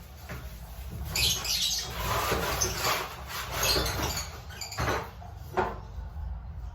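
Lovebirds chirping in irregular bursts, with a couple of sharp knocks a little before the end.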